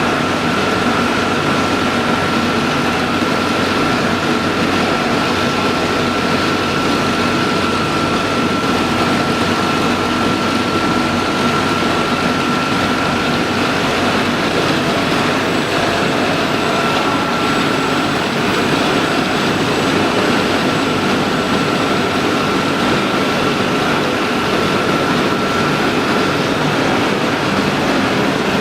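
Steady, loud industrial machinery noise with a constant high whine running through it.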